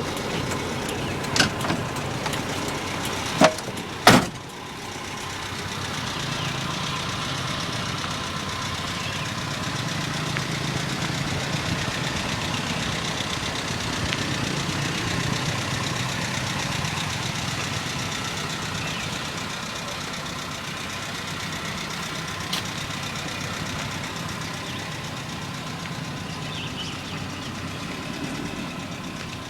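1996 Toyota Kijang's 7K 1.8-litre inline-four gasoline engine idling steadily. Three sharp knocks in the first few seconds, the last two close together.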